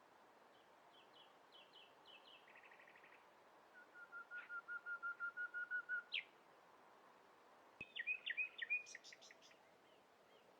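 Songbirds singing outdoors in several distinct phrases: a run of short high chirps and a brief buzzy trill, then a rapid, evenly spaced series of notes that grows louder, and near the end a louder, more complex warbled phrase with a brief click just before it.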